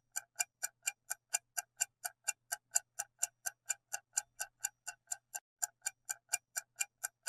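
Clock-like ticking of a quiz countdown timer, about four even ticks a second, marking the time to answer.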